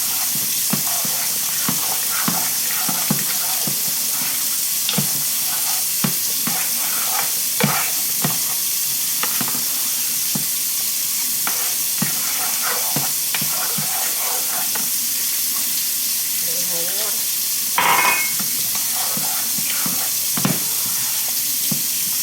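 Mushroom gravy sizzling and bubbling in a pan while a utensil stirs it, tapping and scraping against the pan again and again, with one louder scrape about eighteen seconds in.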